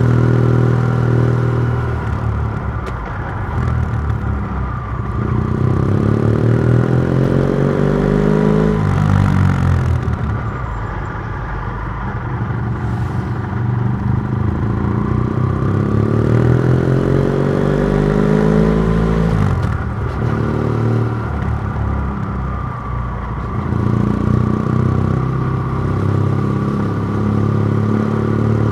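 BMW F700GS parallel-twin engine through a MIVV Oval titanium exhaust with the dB killer removed, revving up in pitch three times and each time dropping back sharply as the throttle closes.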